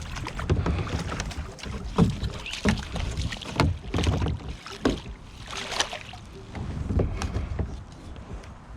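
Irregular knocks and bumps on a kayak over a low rumble, made by the angler shifting and handling gear while fighting a hooked fish.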